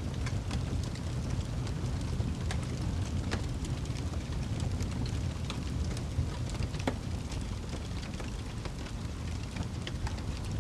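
Wood fire crackling, with scattered sharp pops, a few louder than the rest, over a steady low rumble.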